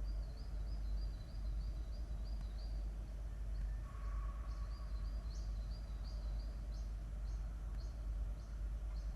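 A bird chirping in quick runs of short high notes, with a brief steadier whistle about four seconds in, over a steady low rumble of background noise.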